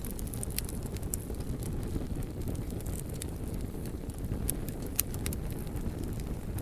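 Wood fire burning: a steady low rumble of flame with scattered sharp crackles and pops, the sharpest pop about five seconds in.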